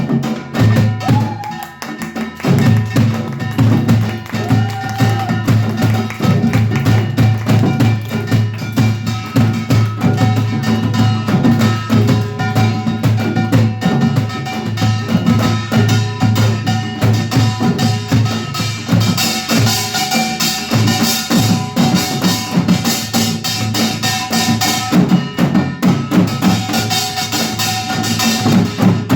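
Samul nori ensemble playing: kkwaenggwari small gongs, janggu hourglass drums, buk barrel drum and jing gong beating out a fast, dense rhythm, with a brief drop in loudness about two seconds in.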